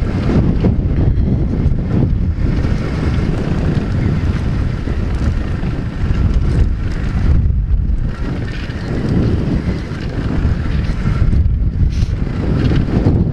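Wind buffeting the action-camera microphone over the single-cylinder four-stroke engine of a 125cc pitbike running while riding, with the level dipping briefly a couple of times.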